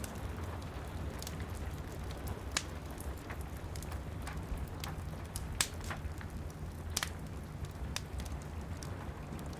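Wood fire crackling in a fireplace, with a few sharp pops, the loudest just past halfway, over a steady hiss of rain on the window glass and a low rumble.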